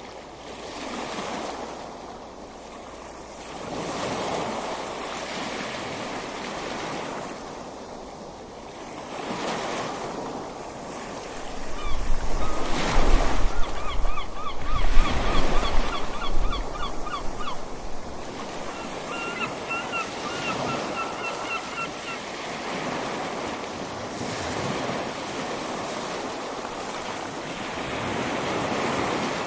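Ocean waves washing onto a beach in slow, swelling surges. Midway a louder stretch comes with wind rumbling on the microphone, and a bird calls in quick runs of repeated notes for several seconds, twice.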